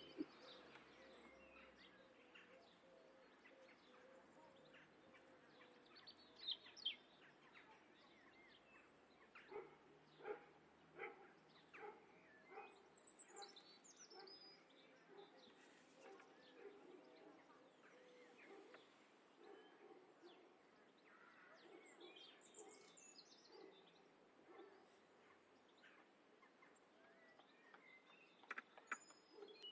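Quiet outdoor ambience: faint bird chirps every few seconds, with scattered soft clicks and rustles.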